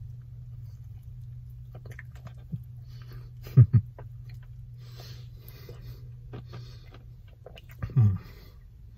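A person biting into and chewing a soft-bunned fried chicken sandwich with the mouth closed: faint moist crackling and smacking, over a steady low hum. Two short low thuds stand out, a quick pair about three and a half seconds in and one more near the end.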